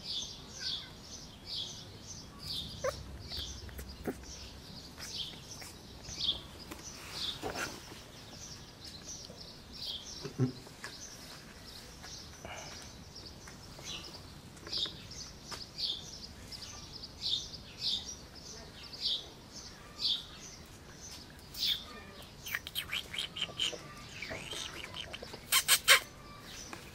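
Small birds chirping over and over, short high chirps about once or twice a second. Near the end comes a quick run of sharp clicks, the loudest sound.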